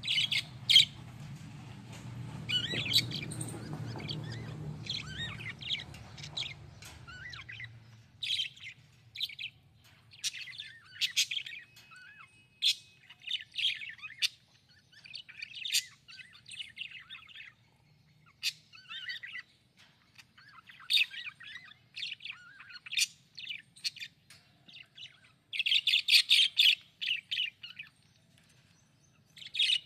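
Budgerigars chirping in short, irregular bursts of high chirps and squeaks, with a denser flurry of chatter near the end.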